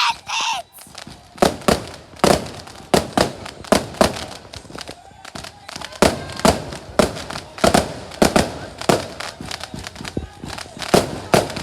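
Fireworks going off in a rapid, irregular string of sharp bangs and cracks, about two or three a second, some louder than others.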